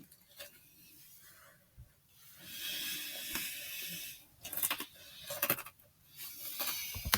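Dry Kix cereal rustling and crunching, with a cluster of sharp clicks and crackles midway.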